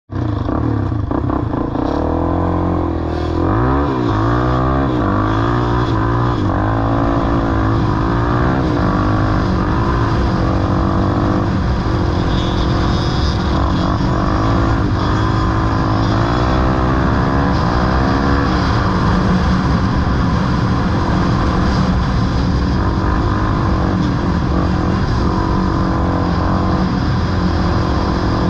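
ATV engine running hard off-road, its pitch rising and falling repeatedly as the throttle is blipped and opened between gear changes, running more evenly near the end.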